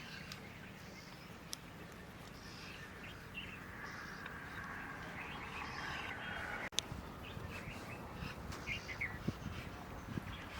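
Birds calling, short chirps and calls scattered through, over a faint steady outdoor background, with one sharp click about two-thirds of the way through.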